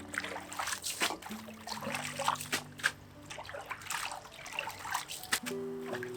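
Irregular wet spattering and crackling, over soft background music with long held notes.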